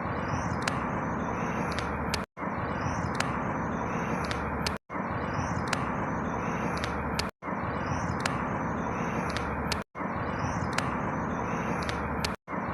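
A short outdoor ambience recording looped about every two and a half seconds, cutting out briefly at each join: a steady rushing background noise with faint high chirps repeating identically in each loop.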